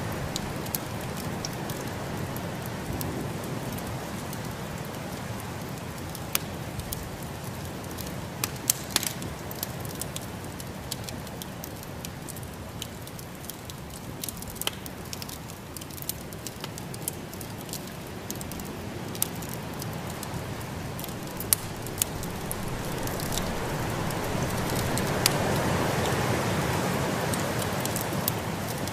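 Wood fire crackling in a fireplace, with scattered sharp pops over a steady rushing noise of snowstorm wind that swells a few seconds before the end.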